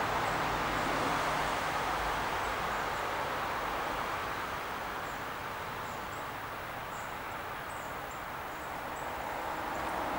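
A steady rushing background noise, with faint, very high, short chirps of small birds scattered through it, most of them in the second half.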